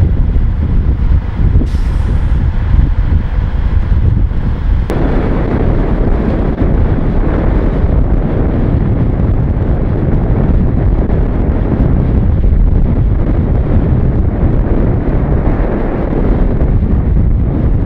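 Cummins NHC-250 inline-six diesel of an M923A1 army truck running under way, with wind buffeting the microphone. A brief hiss about two seconds in, and the engine sound grows fuller about five seconds in.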